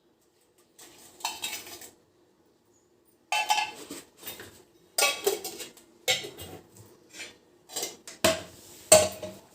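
Kitchen utensils and dishes clattering and clinking: a string of separate knocks and scrapes, about one every second or two, the loudest near the end.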